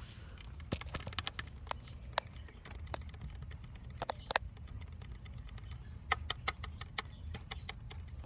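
Irregular sharp clicks and taps, a few of them short and pitched, bunched into quick clusters about a second in, around four seconds in, and again around six to seven seconds in, over a low steady hum.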